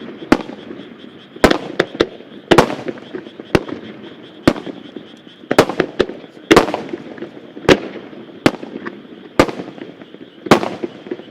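Fireworks shells bursting in an extra-large starmine barrage: sharp booms about once a second, some in quick pairs, each trailing off in an echo.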